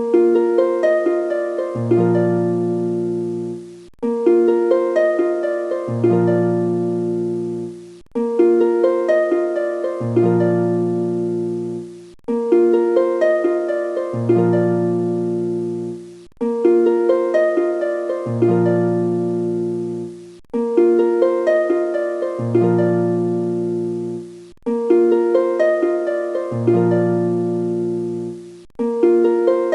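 Background music: a short, gentle plucked-string melody looped over and over. The same phrase repeats about every four seconds, with a brief cut between repeats.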